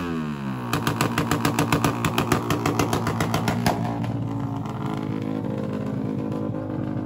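Racing motorcycle engine dropping from high revs, then a run of sharp pops at about three a second as the throttle is blipped, then settling into a steady idle for the last few seconds.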